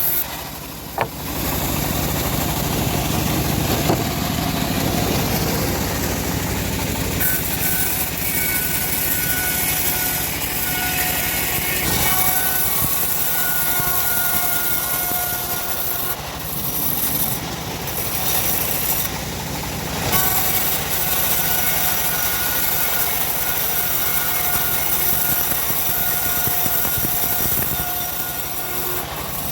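Homemade bandsaw mill running steadily, a continuous mechanical noise with a faint steady whine through much of it.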